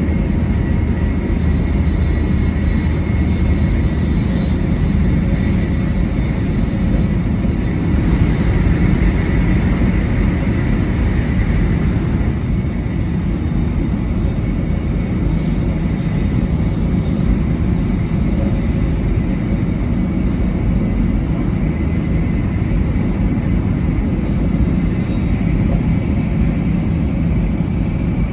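700 series Shinkansen running at speed: a steady rumble with faint, thin whining tones above it.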